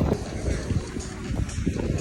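Wind buffeting the microphone in uneven low rumbles, with music playing faintly in the background.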